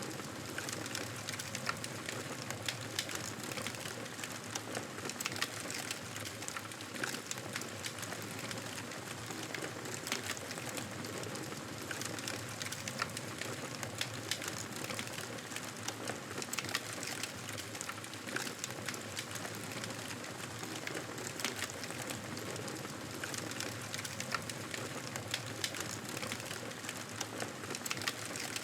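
Campfire burning, a steady hiss of flames with many small, irregular crackles and pops from the burning wood.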